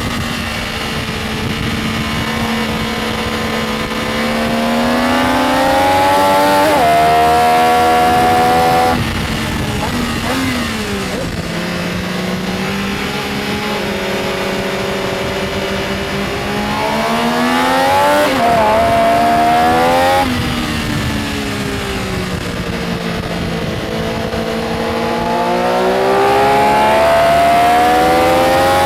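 Benelli Tornado Tre 900's inline three-cylinder engine pulling hard, its pitch climbing and breaking at gear changes. It drops off the throttle about nine seconds and twenty seconds in, then winds up again through the gears.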